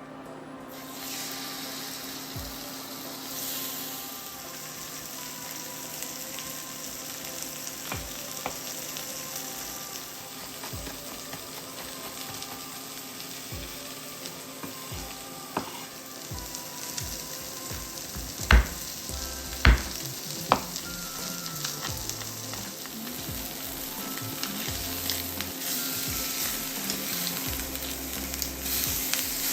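Chicken thighs frying in hot olive oil in a sauté pan, a steady sizzle, with three sharp knocks of a utensil on the pan a little past the middle.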